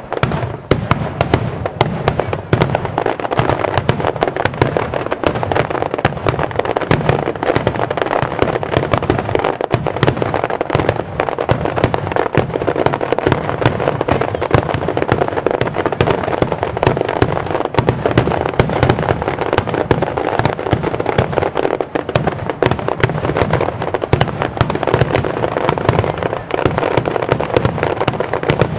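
Japanese star mine fireworks barrage: many shells bursting in quick succession, a dense unbroken run of bangs and crackling.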